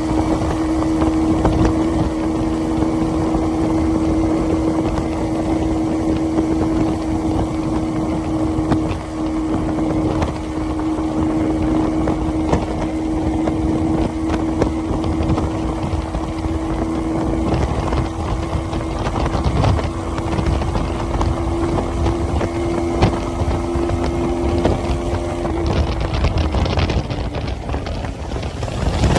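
Motorcycle engine running at a steady, even note while riding, over wind and road rumble. The engine note fades out near the end.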